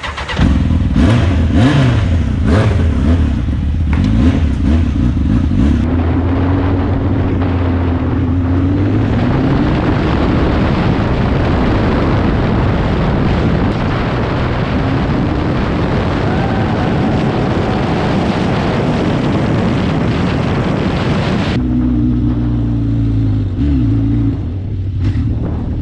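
Honda CBR1000 inline-four motorcycle engine revving as the bike pulls away and is ridden. A loud wind rush on the microphone covers the engine from about six seconds in until about four seconds before the end. After that the engine note comes through clearly again, with a couple of short revs.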